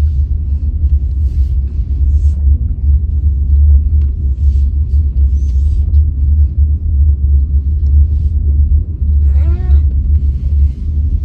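Steady low rumble inside a slowly driven car: engine and road drone in the cabin. A brief voice-like sound comes about nine seconds in.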